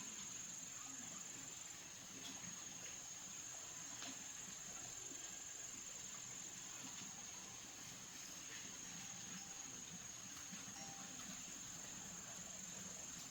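A steady high-pitched trill throughout, with a few faint clicks.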